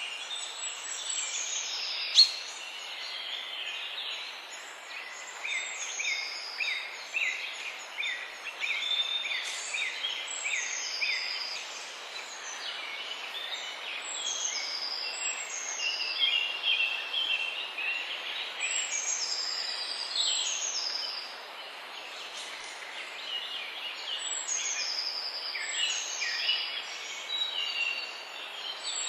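Several wild birds singing and calling at once, a dense chorus of short chirps and quick falling whistles over a steady background hiss. A single sharp click about two seconds in.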